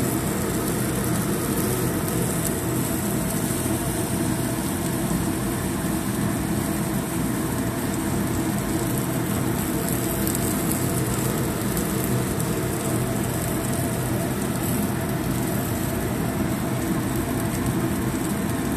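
Crabs and scallions sizzling in a hot steel wok: a steady frying hiss.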